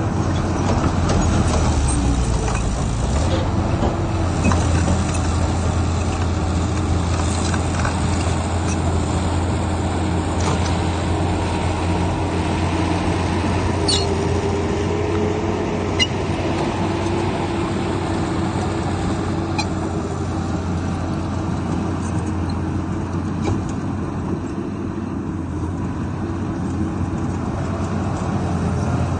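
Heavy diesel earthmoving machinery running steadily, with a strong low engine hum and a few sharp metallic clicks.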